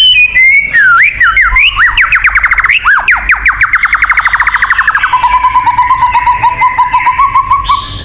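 White-rumped shama (murai batu) singing: a few looping whistled notes, then a long run of fast repeated sweeping notes, and from about five seconds in a rapid trill held at one pitch.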